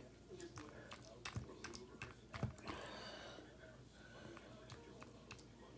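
Close-up mouth sounds of eating sauced fried chicken: chewing with a string of sharp wet clicks and lip smacks, the loudest about two and a half seconds in.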